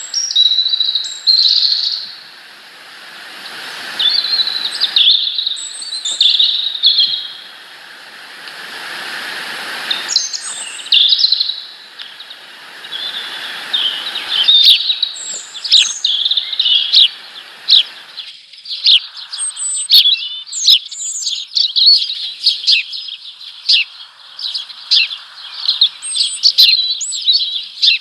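Small birds chirping and twittering, the calls quickening into rapid short chirps from about halfway. A rushing noise lies under the chirps in the first half.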